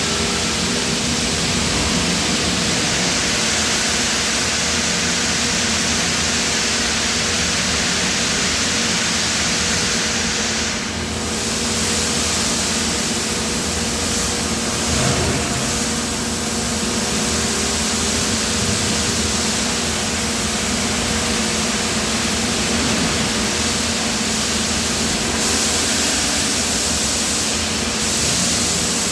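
Steady industrial machinery noise, a loud even hiss over a low steady hum, with a brief dip about eleven seconds in and a single knock about fifteen seconds in.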